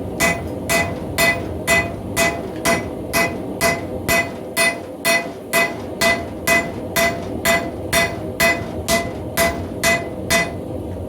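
Hand hammer striking hot steel on an anvil, about two blows a second in a steady rhythm, each blow with a short metallic ring. The smith is drawing the wrapped axe eye closed around its drift.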